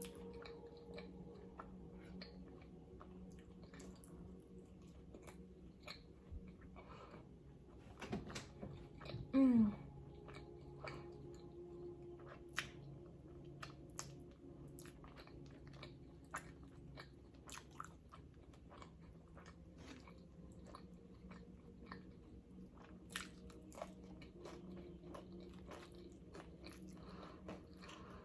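Close-up eating sounds of nacho chips being bitten and chewed: many short, crisp crunches at irregular intervals, with wet chewing between them.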